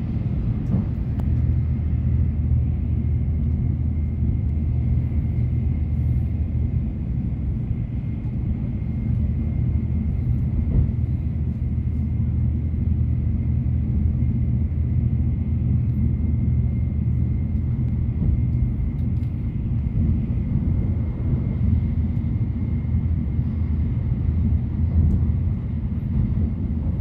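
Shinkansen bullet train running at speed, heard from inside the passenger cabin: a steady low rumble with a faint, thin, high steady tone over it.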